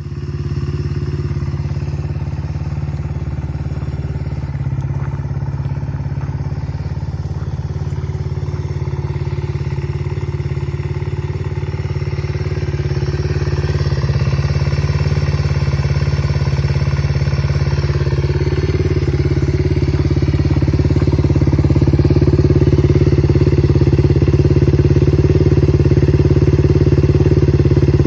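Honda XLR80's single-cylinder four-stroke engine running steadily at a constant speed through a Daytona DAMOS aftermarket muffler. It gets a little louder about halfway through and again later.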